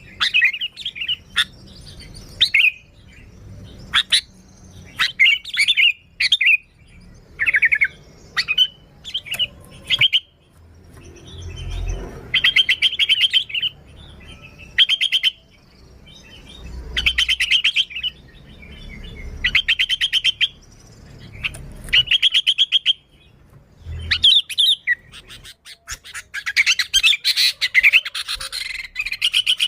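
Sooty-headed bulbul (kutilang) calling vigorously: short chirping notes at first, then a series of quick rattling phrases about a second long, and a dense burst of chatter near the end.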